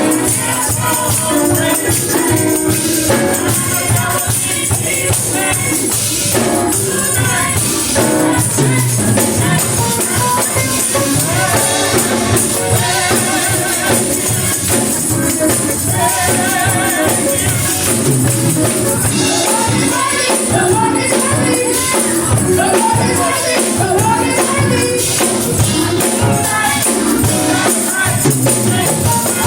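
Live gospel music: voices singing together over a band with a steady driving beat and rattling percussion.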